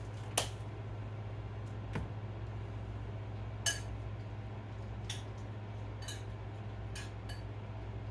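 A utensil clinking against dishes, about seven light clinks spread unevenly, over a steady low hum.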